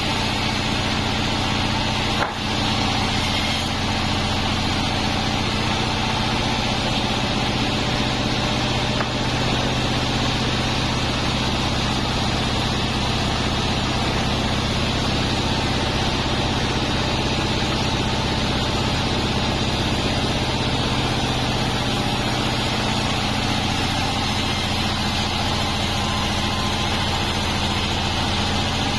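Large sawmill band saw machine running steadily with a constant low hum, with one short knock about two seconds in.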